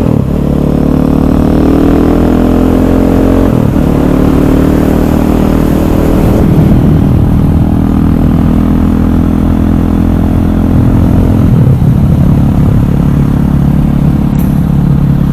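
Single-cylinder four-stroke engine of a KTM 500 EXC supermoto running under way, its pitch stepping at changes of throttle or gear about 4 seconds in and again near 12 seconds.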